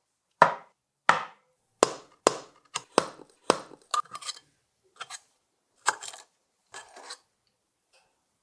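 A series of sharp knocks on a hard surface, roughly one or two a second, each dying away quickly; they thin out after about five seconds and stop before the end.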